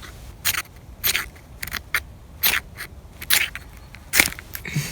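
A steel striker scraped hard down a ferrocerium fire-starter rod about seven times in short, unevenly spaced strokes, a first-time attempt to throw sparks onto tinder.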